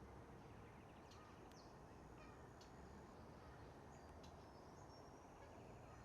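Faint, scattered high bird calls: a few short sharp chips and ticks and a brief thin whistle, over a quiet background hiss.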